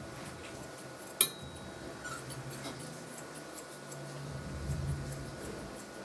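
Grooming shears snipping a puppy's coat: a run of light, quick metal snips, with one sharp metallic click about a second in.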